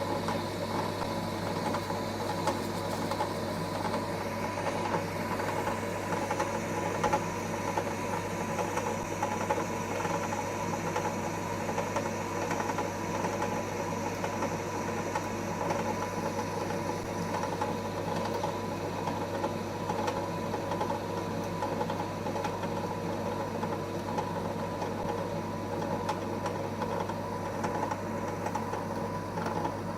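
EMCO Compact 5 benchtop lathe running steadily with its spindle turning: an even motor hum with a steady mechanical whir that does not change.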